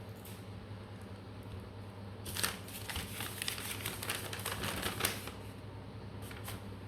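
Handling noise: a quick run of clicks and rustles starting about two seconds in and lasting about three seconds, over a low steady hum.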